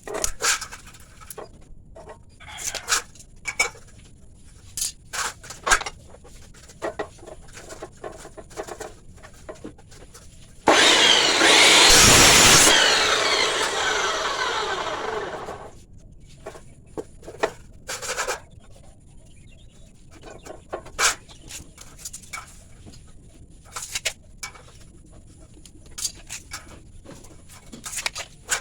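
Scattered knocks and clatters from handling steel angle iron. About eleven seconds in a power cutting tool runs loudly for a couple of seconds, then winds down over the next few.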